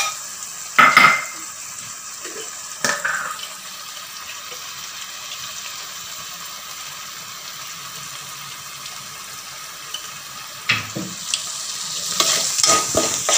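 Thick masala gravy sizzling steadily in a metal pot. A metal spoon knocks and scrapes against the pot about a second in, again near three seconds and near eleven seconds, then clatters through several quick stirring strokes near the end.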